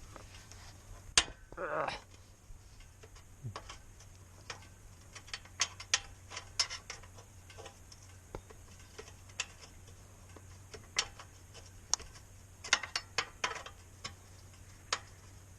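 Irregular metallic clicks and taps of a 10 mm ratchet wrench working the oil drain plug of a motorcycle engine, over a faint steady low hum.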